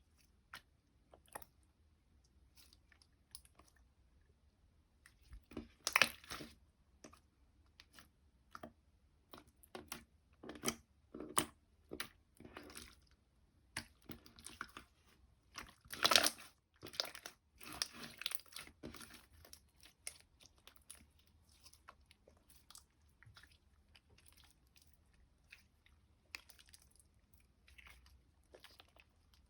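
Slime being pressed, squeezed and poked by hand, giving irregular crackly, squishy clicks and pops, with louder clusters about six seconds and sixteen seconds in.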